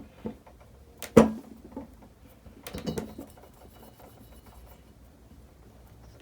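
A few light metal clicks and knocks, the loudest about a second in, as a lubed valve is slid back into its guide in a Honda XR250L cylinder head.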